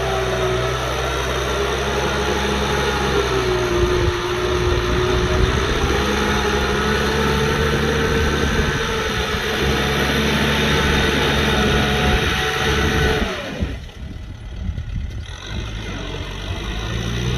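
Kubota M6040SU tractor's diesel engine running steadily, with a high whine over it and its pitch sagging and recovering slightly. About three-quarters of the way through, the sound drops away for a second or two, then comes back.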